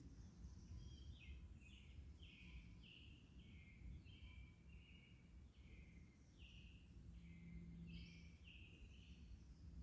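Faint series of short chirps, a little under two a second, over a low background rumble, typical of a small bird calling.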